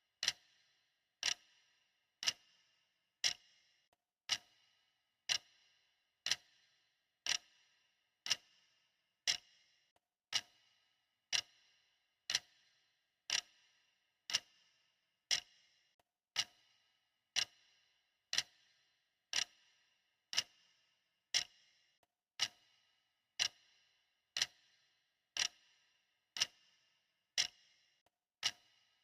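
Clock ticking steadily, one sharp tick a second, each tick with a short bright ring.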